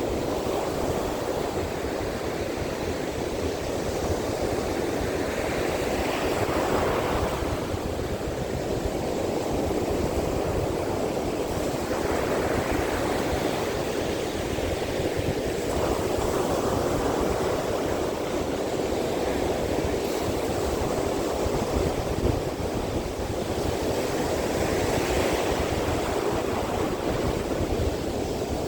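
Sea surf pounding a beach in a strong monsoon wind: a steady rush of water with waves breaking in swells about every six seconds, over a low rumble of wind on the microphone.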